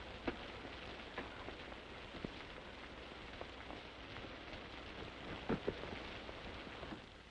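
Steady hiss of rain, heard through the noise of an old film soundtrack, with a few scattered faint knocks.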